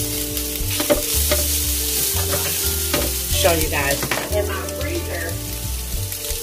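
Ground beef, onions and peppers sizzling in a hot flat pan, with a metal spatula scraping and stirring through them. A low, shifting hum runs underneath.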